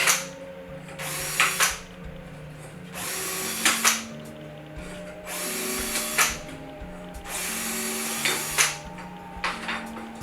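A power drill run in short bursts of about a second, five times, with sharp clicks as each burst ends, typical of deburring holes with a bit in a drill. Faint background music plays underneath.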